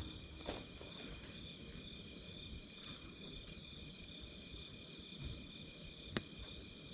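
Campfire crackling, with a few sharp pops about half a second, three seconds and six seconds in, over a steady high chirping of crickets.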